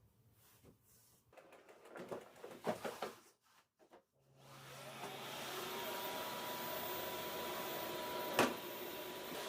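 Small handling clicks and rustles, then about four seconds in a vacuum cleaner is switched on, its motor spinning up with a rising whine into a steady running hum. A sharp click comes near the end.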